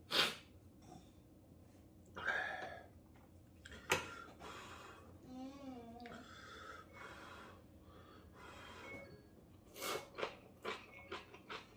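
Someone slurping and eating ramen noodles, with short noisy slurps and sharp breaths, a quick run of them near the end, and a brief wavering hum-like sound about midway.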